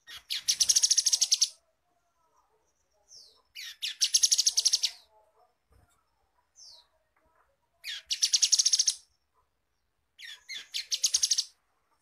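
Grey-headed canary-flycatcher calling: four bursts of a rapid, high trill, each about a second long and led in by a short falling note, spaced about three to four seconds apart.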